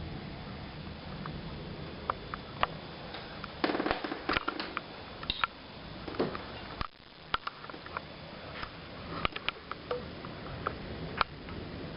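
Heavy rain falling steadily during a thunderstorm, with many sharp, irregular clicks and ticks, like large drops striking a hard surface close by. The rain noise drops out briefly about seven seconds in.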